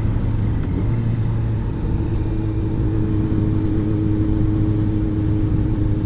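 Honda CBR600 inline-four motorcycle engine running at a steady cruising speed.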